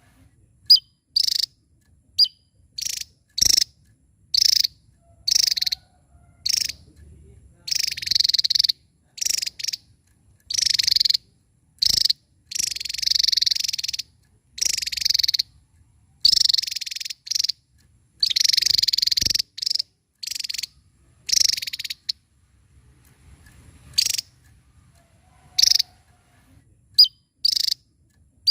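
Javan tesia singing: a long series of high-pitched phrases, some short and some over a second long, separated by brief pauses.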